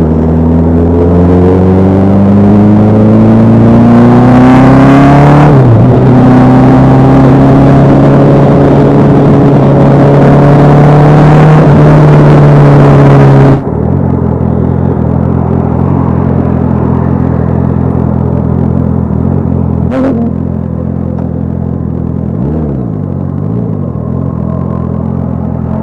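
Sport motorcycle engine accelerating hard, its pitch climbing, with a short dip at a gear change about six seconds in before it climbs again. About fourteen seconds in the sound cuts abruptly to a lower, steady engine note, with a single sharp click near twenty seconds.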